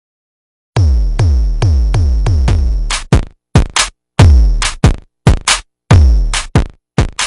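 Electronic music beat from a drum machine, starting about a second in: deep kick-drum hits that drop in pitch, about two a second, then broken into short choppy hits with sharp snare-like cracks.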